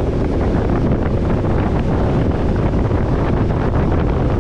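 Wind buffeting the microphone: a loud, steady, low rumble of noise.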